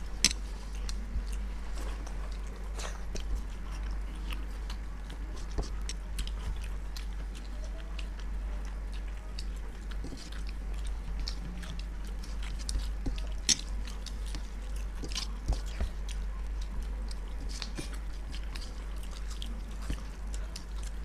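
People chewing and biting into food, khichuri with fried fish cutlet and pakoras, with scattered small clicks and crunches throughout, over a steady low hum.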